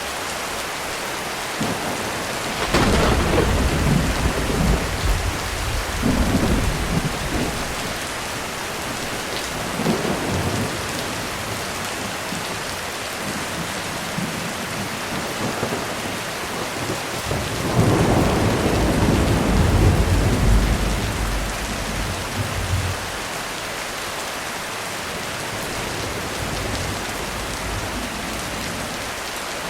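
Heavy rain falling steadily on a roof, with rolling thunder: a long rumble a few seconds in, a shorter one shortly after, and the loudest, longest rumble past the middle.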